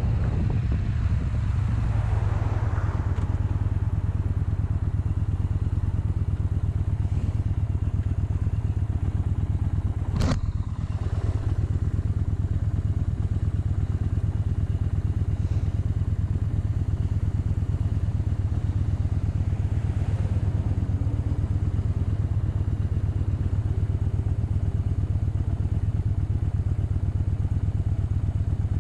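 Motorcycle engine running at a steady pitch, with one sharp click about a third of the way through.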